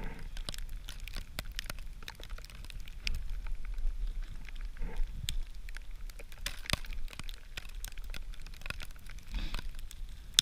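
Small campfire of resinous spruce wood catching and crackling, with irregular sharp pops throughout, over a low steady rumble of wind.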